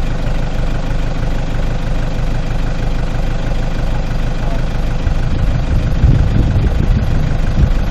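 Off-road 4x4's engine running at low revs, a steady rumble. About five seconds in it grows louder and rougher, with low thuds.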